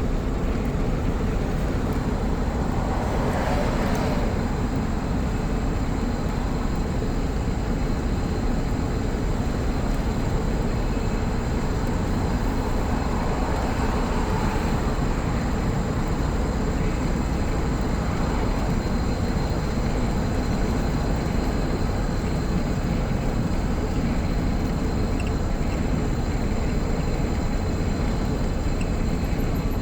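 Steady engine and road noise heard from inside a moving old car, swelling briefly a few times.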